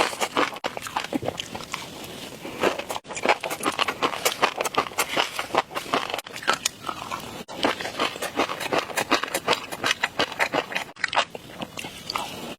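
Close-miked ASMR eating: a dense run of crunchy chewing clicks and crackles, broken by a few sudden short gaps.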